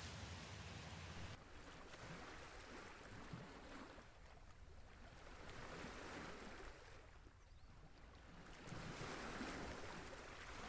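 Faint outdoor wind and water noise, swelling and easing every few seconds.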